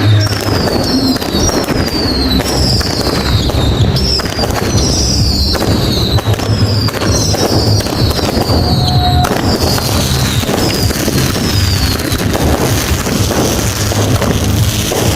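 Fireworks going off in quick succession: a run of short whistles, each falling in pitch and often overlapping, over continuous crackling and popping. The whistles thin out and stop about twelve seconds in, leaving the crackle.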